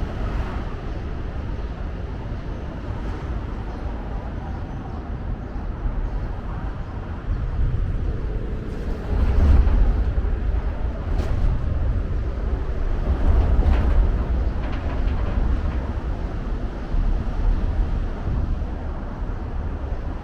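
Outdoor city ambience on a riverside walk: a steady low rumble that swells twice near the middle, with faint voices of people nearby.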